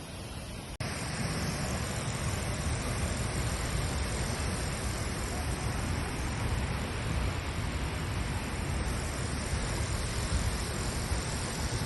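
Steady rushing roar of a waterfall close by, an even wash of noise that starts abruptly about a second in.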